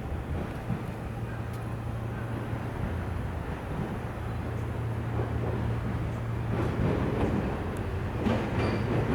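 Container freight train arriving at a station: a steady low hum, with the rumble of the wheels growing louder and clicks of wheels over rail joints starting in the last couple of seconds.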